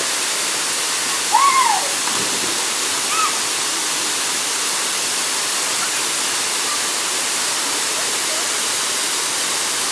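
Waterfall rushing with a steady, even roar. A short voice call rises and falls over it about a second and a half in, and a fainter one comes about three seconds in.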